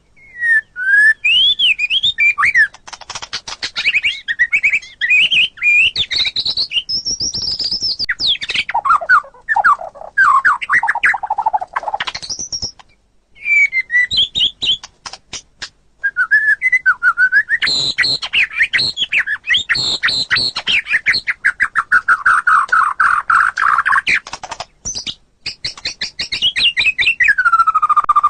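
White-rumped shama (murai batu) singing a long, varied song: loud whistled phrases, quick rising and falling notes and rapid trills, broken by two short pauses midway.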